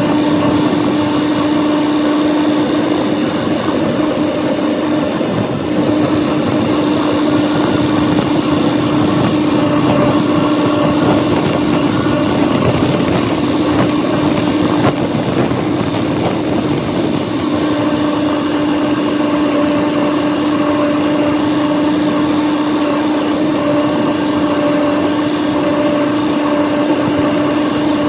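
John Deere diesel tractor engine running steadily at working speed while pulling a brush hog rotary cutter, a loud, even drone with a strong hum.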